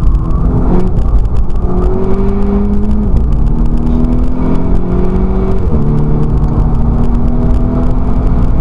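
Volkswagen Scirocco race car's engine pulling under hard acceleration, its pitch climbing steadily and dropping sharply at each upshift: about a second in, at about three seconds and near six seconds.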